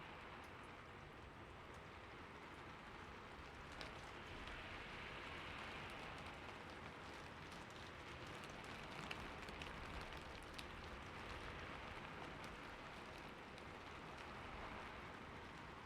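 Steady, fairly quiet rain falling, with a few sharper drop ticks scattered through.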